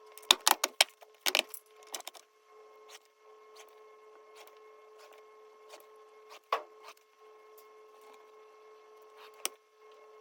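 A quick flurry of sharp clicks and knocks in the first second and a half, then a few single clicks, over a faint steady hum. It sounds like small hard parts or tools being handled.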